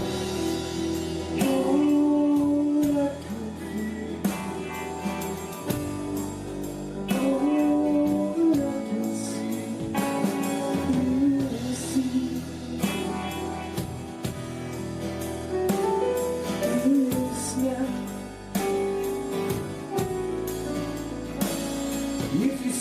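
Live rock band playing: a held, gliding lead melody over steady bass and drum strikes.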